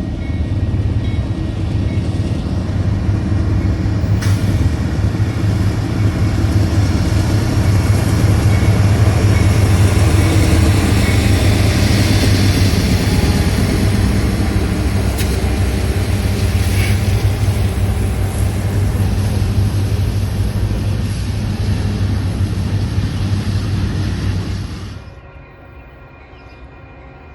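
A train passing close by, with a steady low engine drone and wheel-on-rail noise. It cuts off suddenly near the end.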